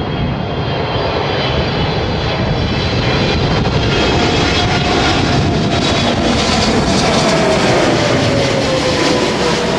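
Boeing 777 jet engines on final approach passing close by: a loud, steady jet rumble that grows louder, with an engine tone sliding slowly down in pitch as the aircraft goes past.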